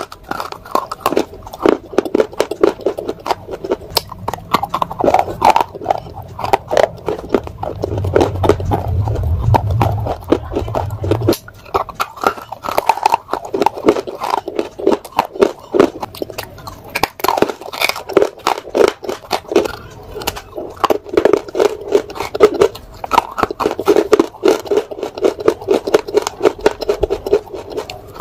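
Close-up crunching and chewing of hard, dry chunks of dark grey edible clay, with many sharp crunches following one another as the pieces are bitten and ground between the teeth.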